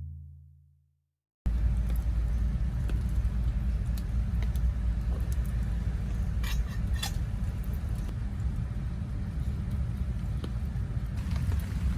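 A deep, drum-like musical hit fading away, then about a second and a half of silence, then a steady low rumble with a few faint clicks.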